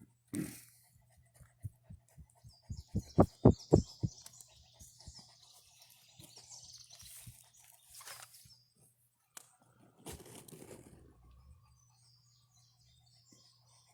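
Small birds chirping, broken by a quick run of about eight loud thumps a few seconds in, and a brief rustle later on.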